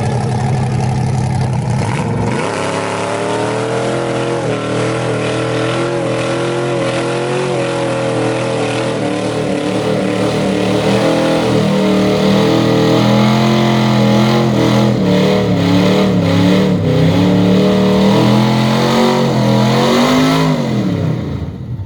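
Car engine revved and held at high revs, its pitch wavering, with crackling pops through the middle; near the end the revs rise once more and then drop off sharply.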